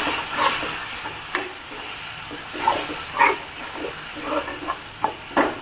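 Tomato, green chilli and ginger purée frying in oil in a nonstick kadai, sizzling steadily while a steel spoon stirs and scrapes it, with short scraping strokes every second or so.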